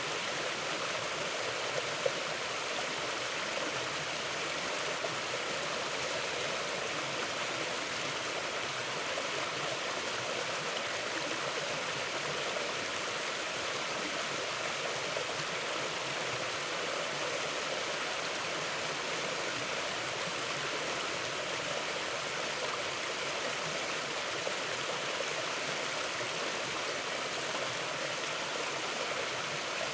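A mountain river flowing: a steady, even rush of running water. One brief click about two seconds in.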